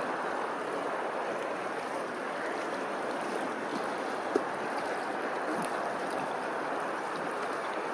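Steady rush of running water, with one brief sharp tap a little over four seconds in.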